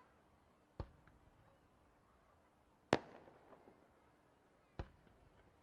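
Fireworks going off: three sharp bangs about two seconds apart, the middle one loudest, each trailing off with a short echo.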